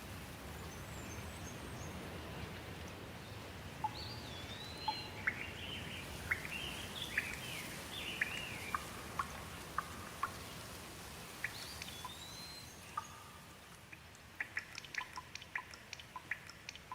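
Steady rain with birds calling over it in repeated short chirps and sweeping whistles, most of them in the middle of the stretch. Near the end the rain eases and quick, sharp water drips take over.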